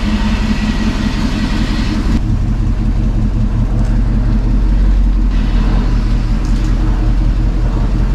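Chevrolet two-door Tahoe's V8 engine idling steadily through its MagnaFlow exhaust, a deep continuous rumble; the tone shifts slightly about two seconds in.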